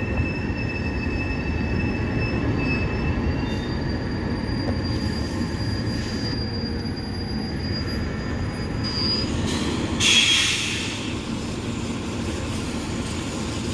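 Autocar ACX garbage truck moving slowly, its brakes squealing in thin high tones over a low diesel rumble; a short hiss of air comes about ten seconds in.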